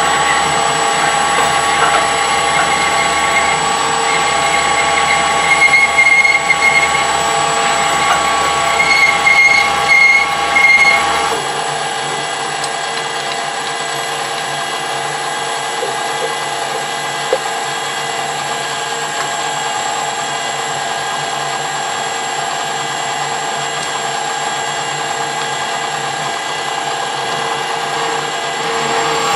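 Metal lathe running with a steady gear whine while a drill with worn, dull cutting edges is pushed into the work, squealing in short high bursts. About eleven seconds in the cutting sound drops away and the lathe runs on steadily.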